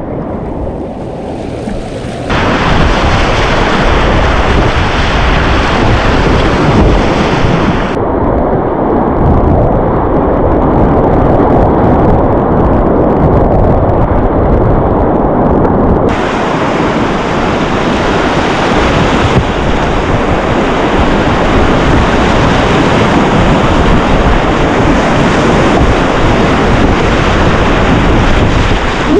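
Loud, steady rush of whitewater rapids on a class III river. The sound's character changes abruptly at about two, eight and sixteen seconds in.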